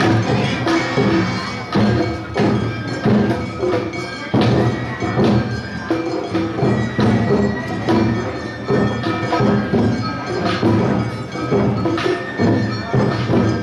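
Awa odori narimono band playing: drums and hand-held kane gongs strike a steady marching beat, with a pitched melody line sounding over the percussion.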